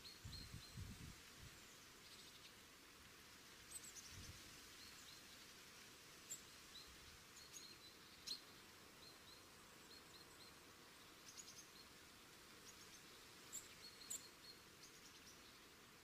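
Faint outdoor ambience with small birds chirping now and then: short, high chirps scattered through. A few low, dull bumps come in the first second or so and again around four seconds in.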